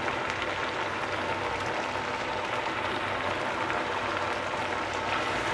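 Spice paste (masala) sizzling and bubbling steadily in hot oil in a nonstick pan as it is sautéed down (bhuna).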